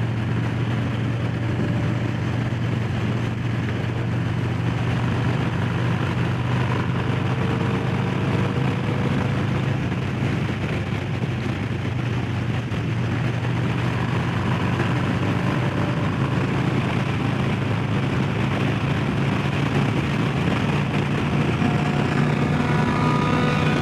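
Harley-Davidson Low Rider S's Milwaukee-Eight V-twin running at a steady cruise on the road, an even engine hum with no revving or gear changes.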